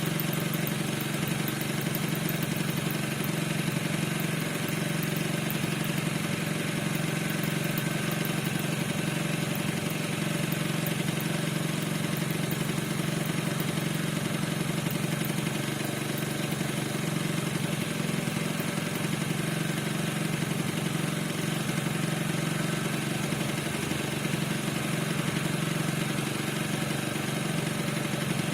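Piaggio NRG 50 scooter's two-stroke 50 cc engine idling steadily, with no revving.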